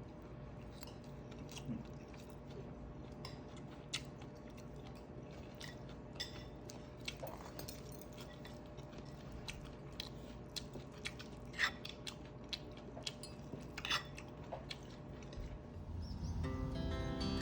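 Quiet eating at a table: chewing with scattered light clicks and clinks of cutlery and dishes. A soft guitar song fades in near the end.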